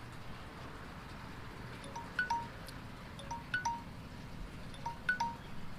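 Faint wind chime ringing: three small groups of short bright notes about a second and a half apart, over a low hiss of wind.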